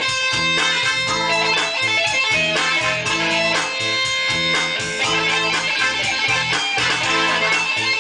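Guitar music with a rhythmic bass line.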